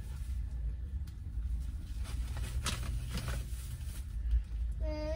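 Low, steady rumble of an SUV's idling engine, heard from inside the cabin, with light rustling and knocks about two to three seconds in as things are handled in the open cargo area at the back. A brief voice starts near the end.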